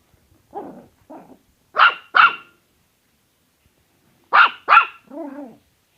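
A dog barking: two softer barks, then two quick pairs of sharp barks, the second pair followed by a lower, drawn-out sound.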